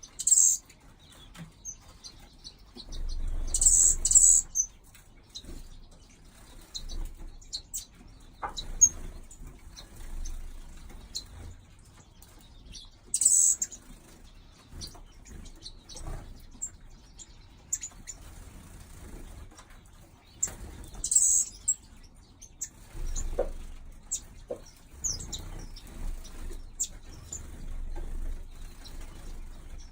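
Small aviary finches and waxbills chirping and calling in short, very high notes, with a few louder bursts of calls among many faint chirps, and wings fluttering.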